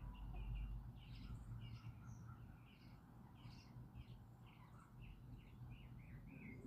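Small birds chirping, a rapid run of short high chirps several times a second, faint over a steady low rumble.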